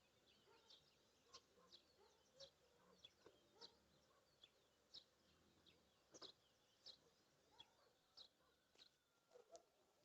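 Faint bird chirping: a steady run of short, high chirps, roughly two a second, over a low background hiss.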